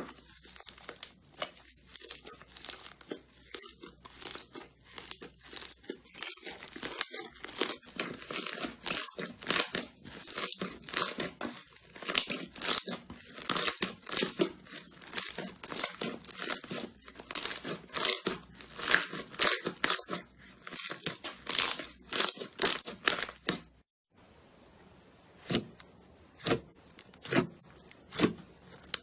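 Slime being squeezed and pressed by hand, giving a dense run of crackling, crunchy pops. Near the end it breaks off for a moment, then resumes with fewer, separate pops.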